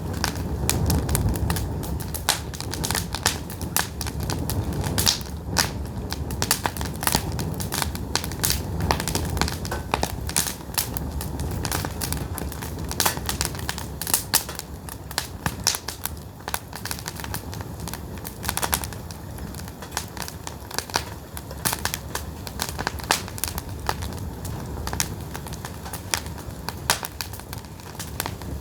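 Pine firewood burning in an open fire, popping and crackling in sharp irregular snaps over the low rumble of the flames.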